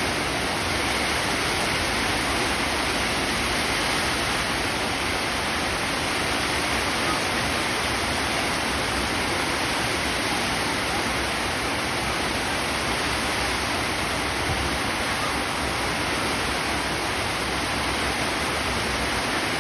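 Heavy rain with wind in a storm: a steady, dense hiss that never lets up.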